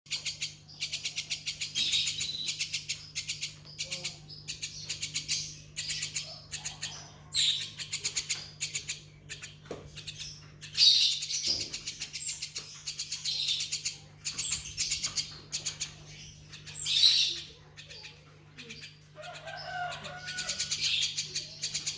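Small songbirds chirping in rapid, high-pitched chattering trills, one phrase after another with short pauses between. A faint steady low hum runs underneath.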